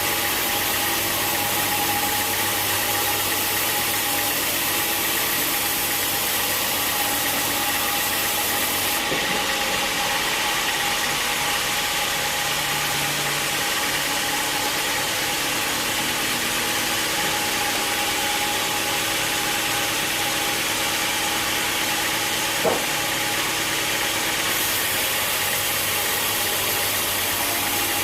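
Sawmill machinery running steadily, an even mechanical hum and hiss whose highest hiss fades out about nine seconds in and comes back near the end, with one sharp knock late on.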